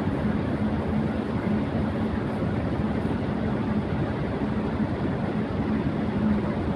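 Electric fan running at high speed: a steady rush of air with a low hum beneath it.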